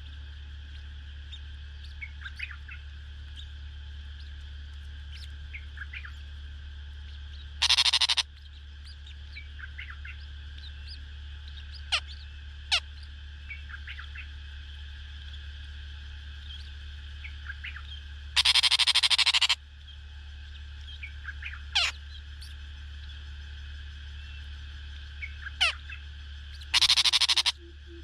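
Small birds chirping in short scattered notes over a steady low hum. Three times a loud harsh burst about a second long breaks in, typical of a brood of nestlings begging as they are fed.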